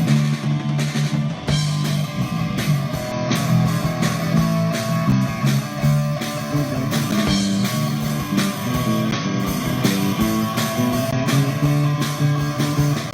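Rock band playing with electric guitar, bass guitar and drums: a quick run of low notes over a steady drum beat.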